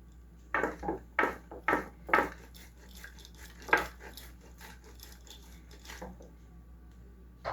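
Kitchen utensils clinking and knocking against dishes: a quick run of sharp knocks in the first two seconds, one more loud clink near four seconds, then lighter taps.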